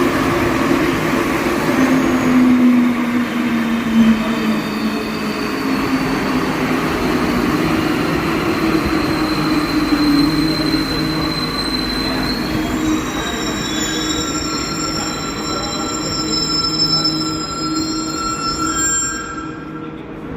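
NS-16 metro train running past, with a steady motor hum and a short falling tone early on. From about halfway, high wheel squeal joins in, then cuts off near the end as the sound drops away.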